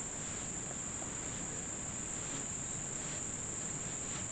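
Insects trilling outdoors as one steady, continuous high-pitched drone.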